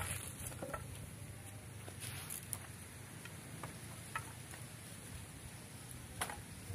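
Faint, scattered snaps and clicks from dry kindling wood at a bonfire being built, over a steady high insect hiss.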